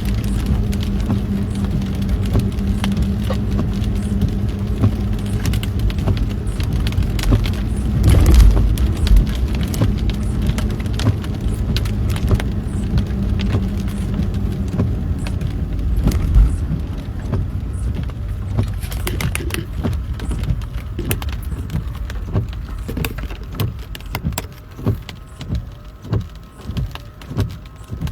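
Rain beating on a car's roof and windshield in a thunderstorm, with a steady low hum from the vehicle through the first half. There is a heavy thump about eight seconds in and another near the middle. Toward the end the rain thins into separate heavy drops striking the car.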